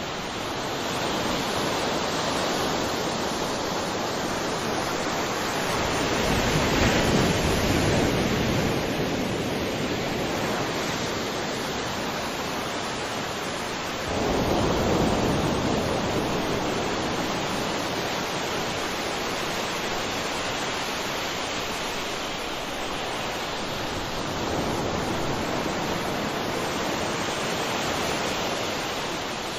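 Sea waves washing onto a shore: a continuous surf wash, with a louder wave breaking about six seconds in and another suddenly about fourteen seconds in.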